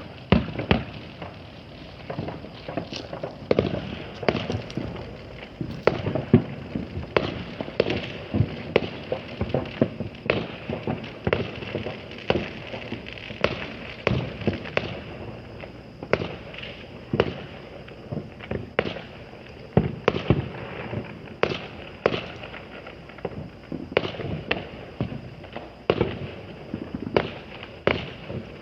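Consumer fireworks going off: an irregular, continuous string of bangs and pops, often several a second.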